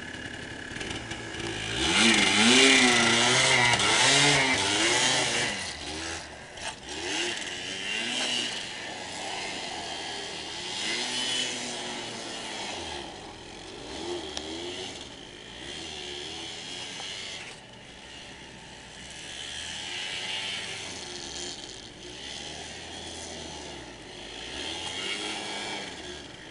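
Four-wheeler (ATV) engine running and revving, its pitch rising and falling, loudest a few seconds in and then fading and swelling again as the machine moves about.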